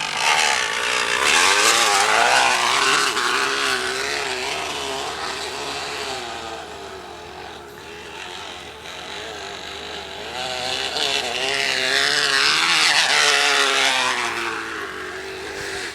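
Crushed aluminium soda can caught on a bicycle wheel, buzzing against the turning wheel like a small motorcycle engine as the bike is ridden. It is really loud: the buzz drops in pitch and fades as the bike slows or moves off, then climbs and swells again near the end as it speeds up or comes back.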